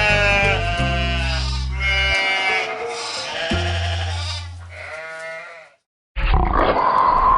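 Several animal calls with wavering pitch over background music with held low notes. After a brief gap near the end, a different, eerie music cue starts.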